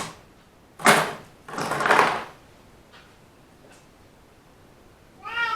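Two short noisy scrapes or rustles about a second apart, then a short domestic cat meow near the end.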